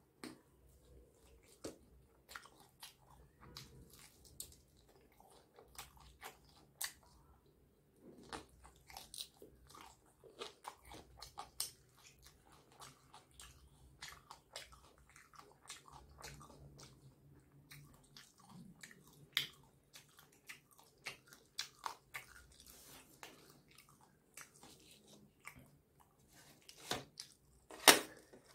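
Close-up chewing and biting of crispy fried chicken, with crunches and wet mouth clicks throughout. Near the end there is a louder sharp knock as a drumstick is dipped into a small steel sauce bowl.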